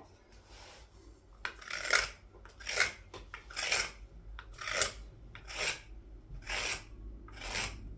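Carving knife paring green wood: seven long scraping cuts, about one a second, taking off shavings fast.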